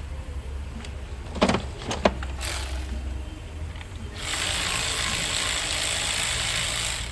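Two sharp metallic knocks, then a brief hiss and, about four seconds in, a steady hiss of pressurised spray lasting about three seconds.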